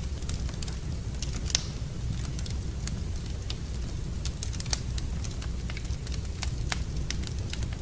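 Wood fire in a fireplace crackling: scattered sharp pops and snaps over a steady low rumble, with one louder pop about a second and a half in.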